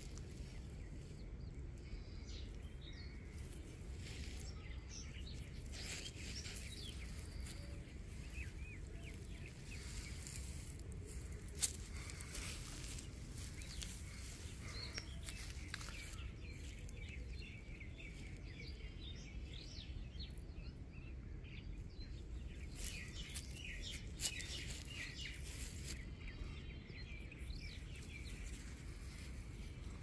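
Quiet outdoor ambience: a low steady background noise with faint, scattered bird chirps coming and going, and one sharp click a little over a third of the way in.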